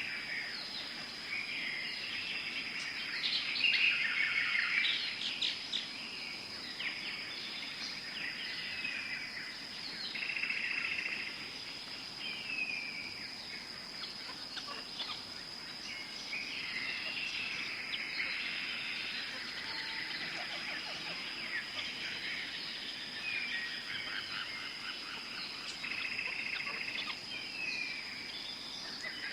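Tropical forest ambience: several birds chirping and calling in short, repeated, overlapping phrases, busiest a few seconds in, over a steady high-pitched whine.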